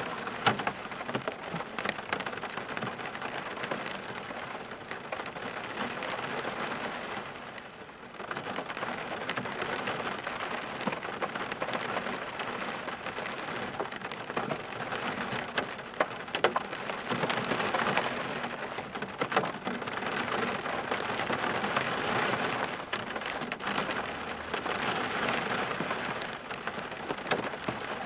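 Steady rain falling, with many individual drops ticking on a surface; it eases for a moment about a quarter of the way in, then picks up again.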